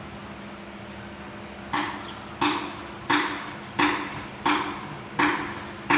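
Metal being tapped with a hammer, seven sharp strikes about 0.7 s apart starting nearly two seconds in, each leaving a short metallic ring.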